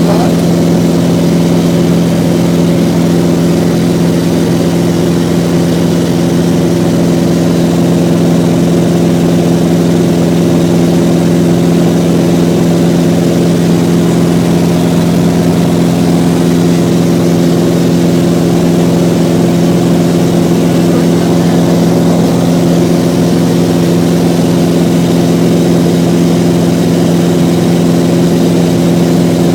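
Mooney single-engine piston airplane's engine and propeller droning steadily at cruise, heard from inside the cabin.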